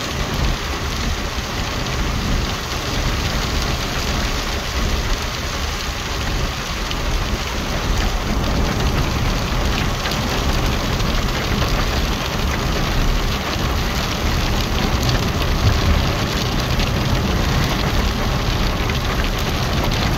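Heavy rain on a moving car, mixed with tyres running on the wet road, heard from inside the car: a steady hiss over a low rumble.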